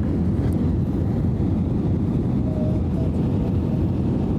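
Steady low roar of an airliner's cabin noise, engines and rushing air heard from inside the cabin during the descent to landing, with a faint wavering whine now and then.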